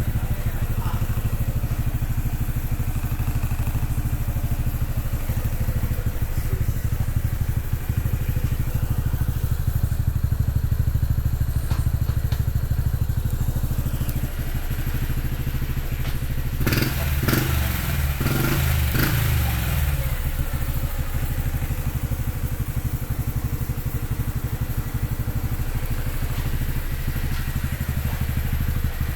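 Honda Cross Cub 110's single-cylinder engine idling steadily through an aftermarket Yoshimura exhaust, blipped a few times with the throttle about two-thirds of the way through.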